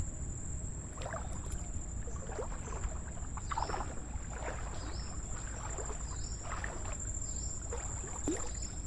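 Water sloshing and splashing with each stride, roughly once a second, as a person wades through deep estuary water. A steady high-pitched insect drone runs underneath.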